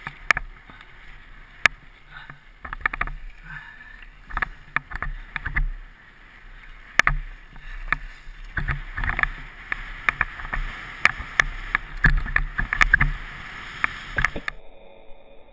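Rider-mounted camera on a fast, bumpy trail descent: irregular sharp knocks and rattles of the gear over rough ground over a steady rushing hiss. The sound cuts off suddenly about a second before the end.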